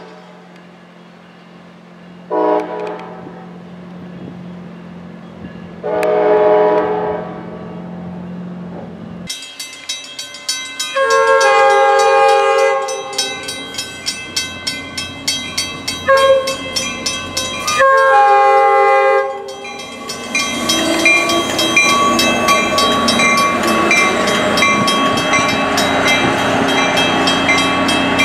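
Train horn blasts as an Amtrak train pulls away. Then a Shore Line East push-pull train sounds a series of long and short horn blasts at a grade crossing while the crossing bells clang steadily. After that its coaches rumble and clatter past close by.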